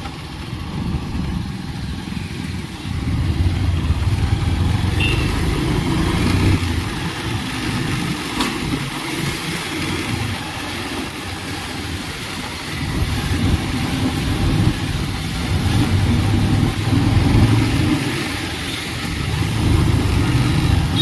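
Two-wheeler engine running while riding along a road, with road and wind noise. The engine sound swells and eases several times.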